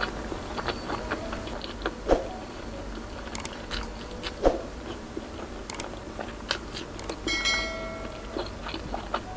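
Close-miked chewing of food, with many small wet mouth clicks and two louder smacks about two and four and a half seconds in.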